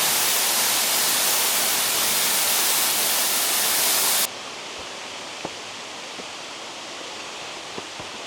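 Waterfall rushing loudly and steadily close by. About halfway through it drops suddenly to a much quieter, duller rush of water, with a few faint clicks.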